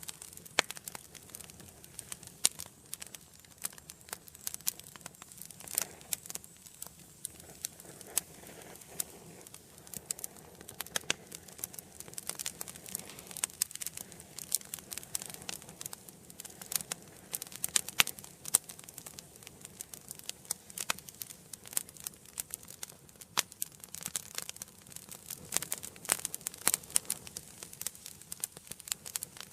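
Wood fire burning in a fireplace: dense, irregular sharp crackles and pops over a soft low hiss of flame.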